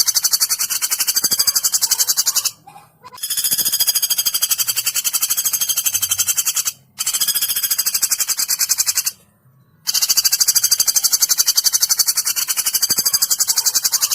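Woodpecker calls: a rapid, high-pitched rattling trill in bouts of a few seconds, broken by short gaps, used as a master song for training competition birds.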